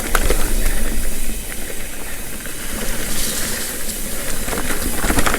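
Mountain bike riding fast down a dirt trail: wind rushing over the camera microphone with tyre noise and scattered knocks and rattles of the bike over rough ground.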